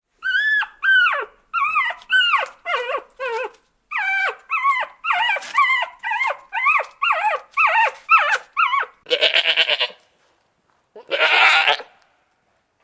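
A dog giving a quick run of about fifteen short, high-pitched yelps that fall in pitch, then a goat bleating twice with a quavering call.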